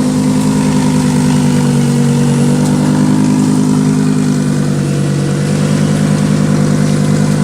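A vehicle engine running steadily at an even speed, loud and close, its pitch swaying only slightly.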